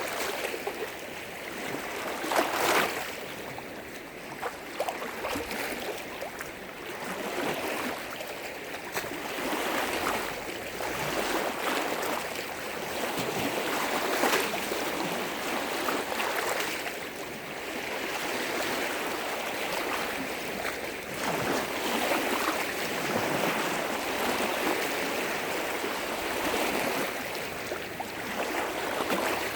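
Lake waves washing and breaking against the shore: a continuous, swelling and ebbing rush of water with sharper splashes now and then, the loudest about two and a half seconds in.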